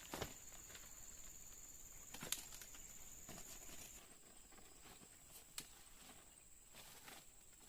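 Faint forest ambience: a steady high-pitched insect drone that shifts slightly higher about four seconds in, with a few scattered light knocks.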